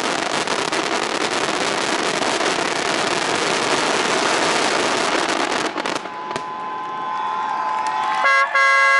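Fireworks finale barrage: a dense run of rapid crackling and popping that stops abruptly about six seconds in. Vehicle horns then sound, with a loud horn blast starting near the end.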